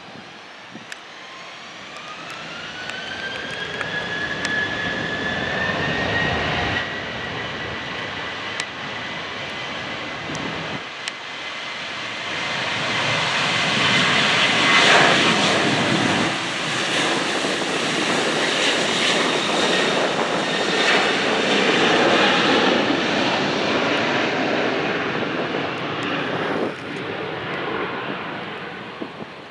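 Airplane engines powering up and passing: a whine rises over the first few seconds and then holds steady. A broad engine roar builds to its loudest around the middle and fades away near the end.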